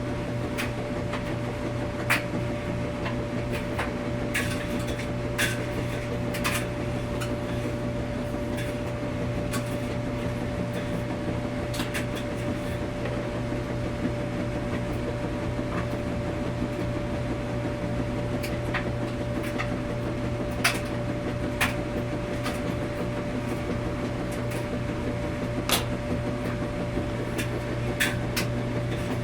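Laundromat washing machine running: a steady drone with a low hum and a constant mid-pitched tone, broken by irregular sharp clicks and knocks every few seconds.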